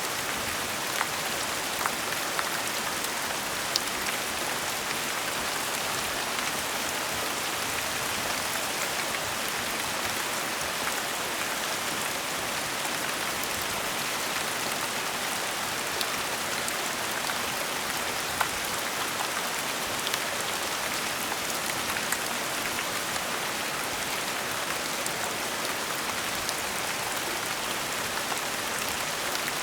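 Gentle rain falling steadily, an even hiss with scattered small drop ticks.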